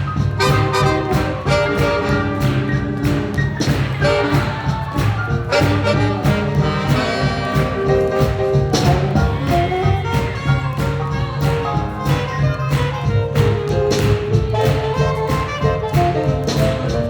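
A live swing jazz band playing a tune with a steady beat, sustained horn-like melody lines over bass and drums.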